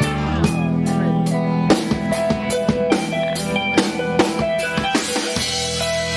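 Live rock band playing: a drum kit keeps a steady beat of about three strikes a second under electric guitar and bass.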